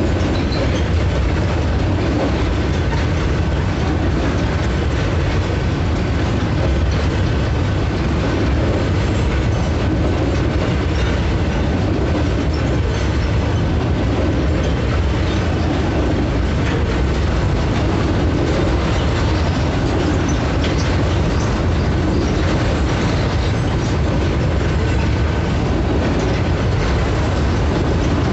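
Freight train of container flatcars rolling past close by: a steady, loud rumble of steel wheels on the rails, with a faint high steady tone over it.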